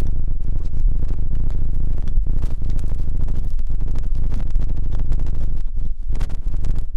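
Close scratching and rubbing against a microphone's ear, as in ASMR ear cleaning: a dense, irregular crackle over a heavy low rumble.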